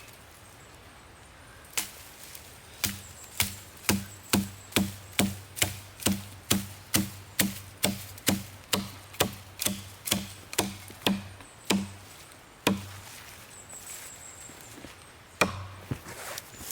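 Wood being chopped with a blade: a quick, even run of about two dozen strikes at two to three a second, each a sharp knock with a short dull thud, then a single strike near the end.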